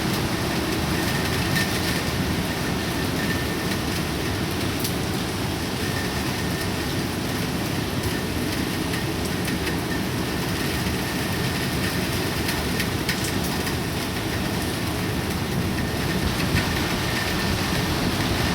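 Heavy typhoon rain pouring down in a steady hiss, with scattered sharp ticks of drops striking nearby surfaces.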